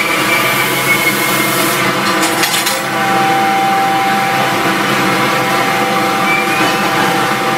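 Amtrak Siemens ACS-64 electric locomotives rolling slowly past close by: a steady rumble and grinding of wheels on rail, with a few clicks about two seconds in. A thin, steady whine sets in about three seconds in.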